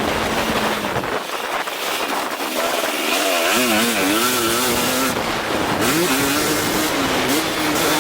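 2023 KTM 250 SX-F's four-stroke single-cylinder engine running, its pitch warbling quickly up and down a few seconds in as the throttle is worked, then settling at a steady pitch. Wind rush over the camera sits underneath.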